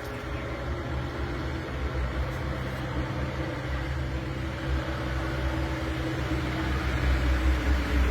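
A steady low mechanical hum with rumble, like an engine running, growing louder near the end.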